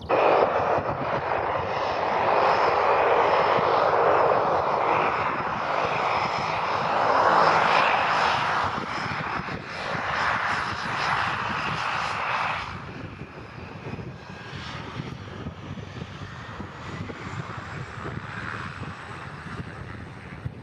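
Propeller aircraft engine running loud, starting abruptly and holding for about twelve seconds, then dropping away to a much lower level.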